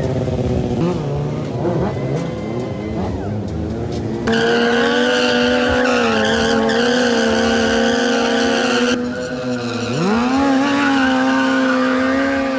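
A vehicle engine revving in short rises and falls, then held at steady high revs with tyres squealing, as in a burnout. Near ten seconds the revs dip briefly, then climb back and hold again.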